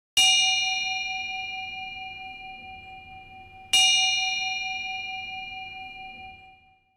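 A metal bell struck twice, about three and a half seconds apart; each strike rings with a clear mid-pitched tone and bright higher overtones that slowly fade away.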